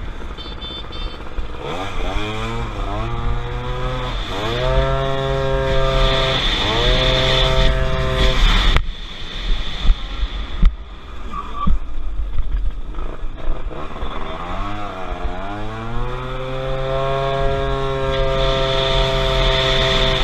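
Motorcycle engine accelerating hard through the gears, its pitch climbing and dropping back at each of several quick upshifts. About nine seconds in it cuts to a quieter stretch with a few knocks, then it accelerates again and holds a steady high pitch at speed.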